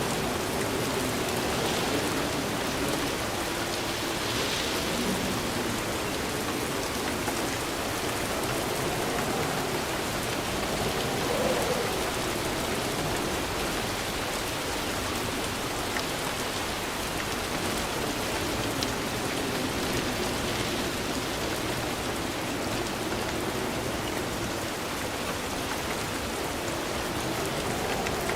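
Steady rain falling, an even hiss with occasional single drops ticking through.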